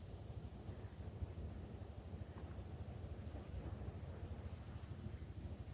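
Insects trilling steadily at a high pitch, over a constant low rumble.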